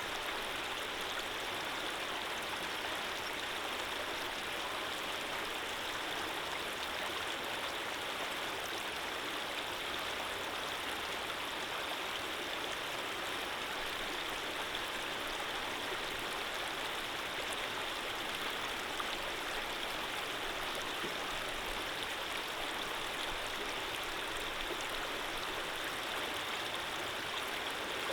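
Running water flowing steadily, an even rushing sound of a stream with no change in level.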